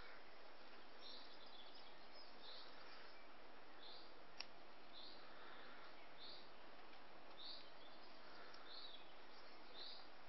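A bird chirping over a steady hiss: a short high chirp about every three quarters of a second. One sharp click about four seconds in.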